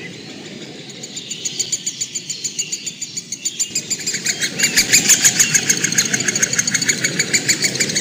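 Bird calling in a rapid, even series of sharp high notes, about six a second, starting about a second in and growing louder partway through, over a low steady background rush.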